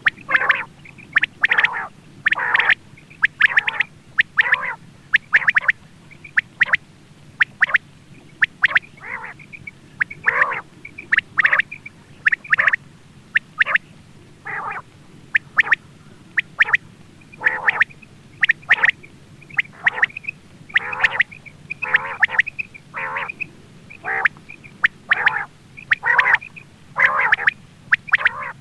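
Quail calling: short, sharp calls repeated about once a second, some in quick pairs, with uneven gaps.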